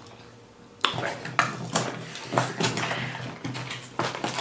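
Plastic snack-bar wrapper crinkling and crackling as it is handled and opened. The crackles start about a second in and come irregularly after that.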